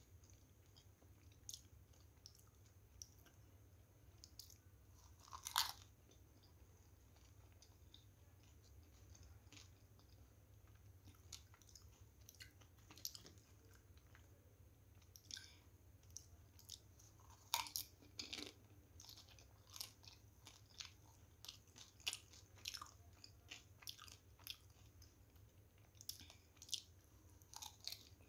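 Person chewing and crunching pani puri, the crisp fried puri shells crackling as they are bitten, in scattered short crunches with the loudest about five and a half seconds in and again near eighteen seconds.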